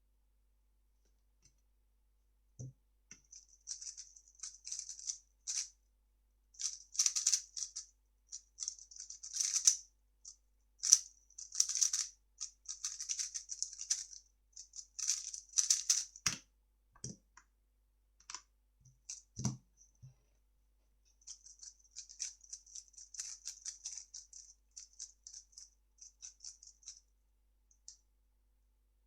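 3x3 speed cube being turned fast by hand: dense runs of plastic clicking and rattling from its layers, with a couple of short dull thumps, one near the start and one about two-thirds through.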